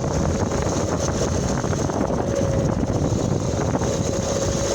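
Wind buffeting the microphone on a moving homemade electric motorbike driven by an alternator, over a steady rumble with a thin steady whine running through it.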